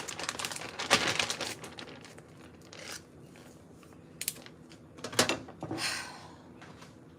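Crinkling and rustling as something is handled: dense in the first two seconds, then a few separate crinkles and sharp clicks further on.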